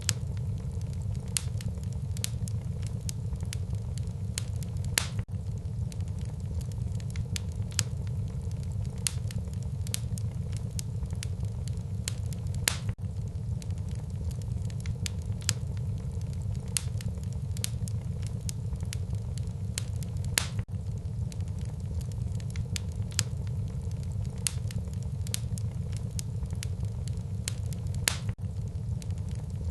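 Wood fire burning in a fireplace: a steady low rumble of flames under many irregular sharp crackles and pops, a few of them louder.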